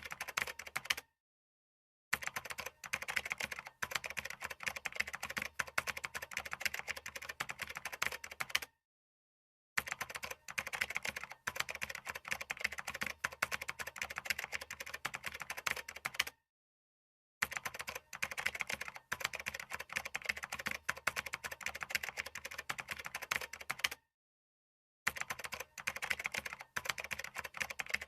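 Rapid typing on a computer keyboard, a dense run of keystroke clicks. It cuts to complete silence for about a second four times, at even intervals of roughly seven and a half seconds.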